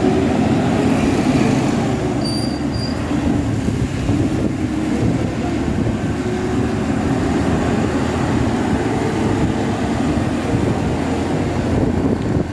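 Honda Click 125i scooter's engine running under way, with wind and road noise. The engine note rises as it speeds up, drops about four seconds in, then climbs slowly again.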